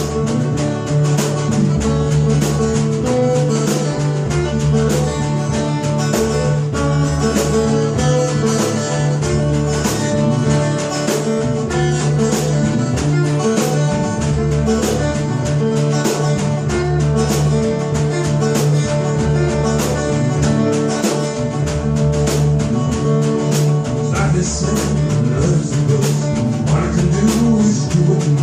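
A blues-rock band playing in rehearsal, with guitar over a steady beat.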